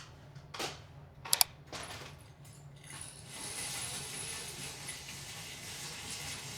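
A few sharp clicks and small knocks, two of them close together about a second and a half in, then a steady hiss with a faint high whine.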